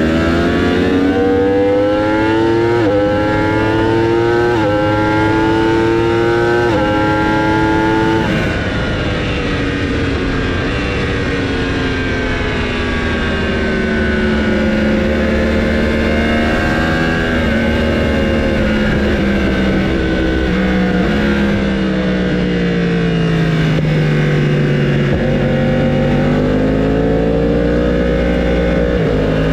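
Racing motorcycle engines at full throttle. For the first eight seconds or so one engine climbs in pitch and drops sharply at each of about four upshifts; after that the engine note slowly falls and rises again as bikes brake and accelerate.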